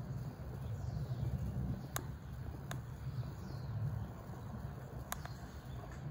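Outdoor ambience by a city river: a steady low rumble, three sharp clicks, and faint high bird chirps.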